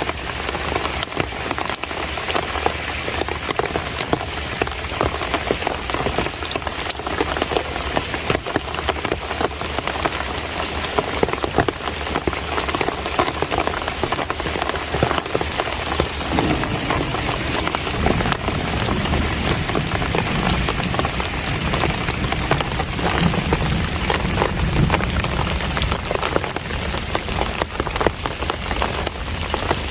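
Steady summer monsoon rain falling on surfaces: a dense patter of many small drop taps. A low rumble comes in about halfway through and continues.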